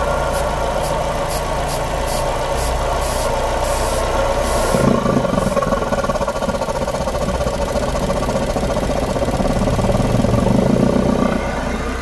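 Jeep engine idling while brake cleaner is sprayed into its air intake in short hissing bursts that come faster and last longer over the first five seconds. The engine runs rich on the brake cleaner, the computer pulling short-term fuel trim to -25%. A lower rumble joins about five seconds in and drops away near the end.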